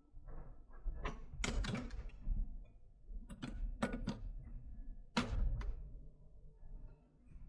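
A run of sharp clicks and knocks at uneven intervals, about eight in all, over a faint low hum.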